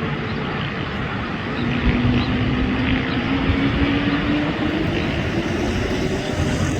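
Airbus A320 jet engines running loud on takeoff: a steady rushing roar with a tone that rises slowly in pitch from about a second and a half in.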